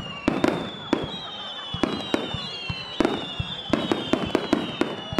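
Aerial firework shells bursting in a rapid barrage, a string of sharp bangs several a second, with high whistles sliding slowly down in pitch over the bangs.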